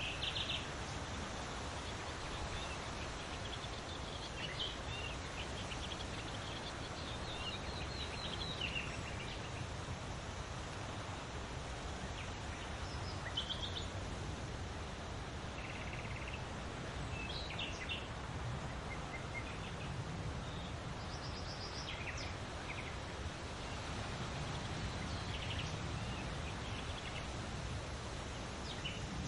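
Birds calling in scattered short chirps and quick rattling series, over a steady rushing background noise.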